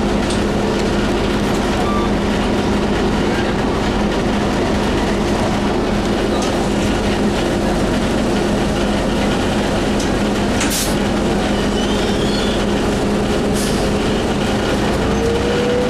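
Steady drone and rumble inside a moving city bus, with a constant low hum. A rising whine starts near the end as the bus picks up speed.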